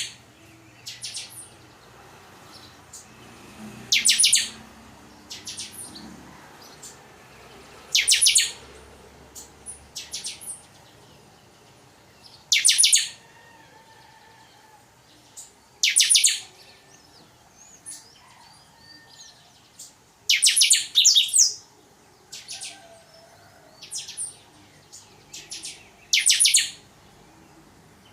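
Chanchão songbird singing its "totonsidonso" song: short, loud, high-pitched phrases repeated about every four seconds, with soft chirps in between.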